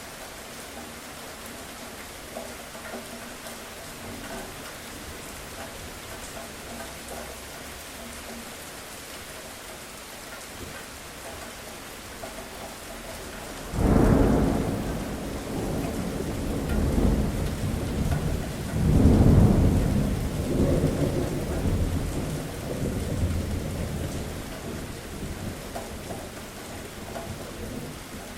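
Steady rain falling, with a thunderclap about halfway through that cracks suddenly, then rolls and rumbles in several swells for about ten seconds before fading back into the rain.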